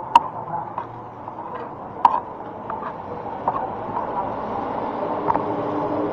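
Restaurant background noise: a steady murmur of diners' voices, with a few sharp clinks of tableware, the loudest just after the start and another about two seconds in.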